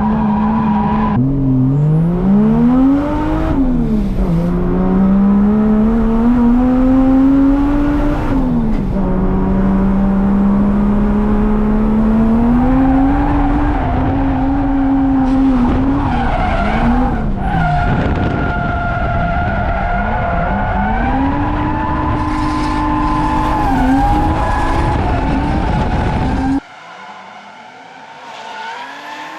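Drift car's engine worked hard at high revs, its pitch rising and dipping again and again as the car slides, over loud tyre skidding. Near the end the sound drops suddenly to a much quieter engine note.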